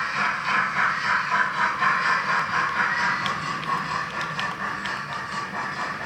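Steam hiss from the sound decoder of a Roco H0 BR 01 model steam locomotive, starting suddenly and slowly fading over several seconds, with a faint rhythmic ticking underneath.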